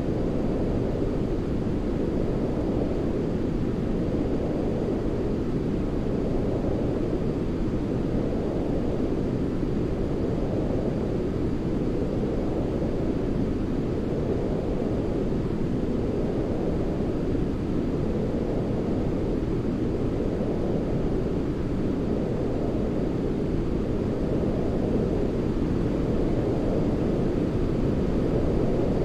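Continuous sleep noise sold as white noise, deep and rumbling rather than hissy, with its brightness swelling and easing gently every few seconds.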